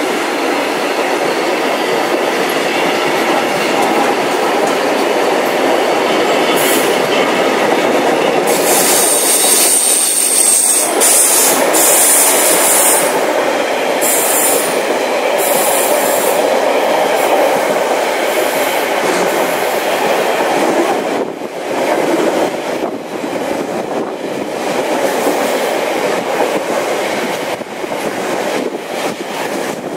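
Container freight train wagons running past at speed with a continuous loud rumble and clatter of wheels on rail. From about 8 to 16 seconds in come bursts of high-pitched wheel screeching, and in the last third the sound breaks into rhythmic clicks as the wheels cross the rail joints.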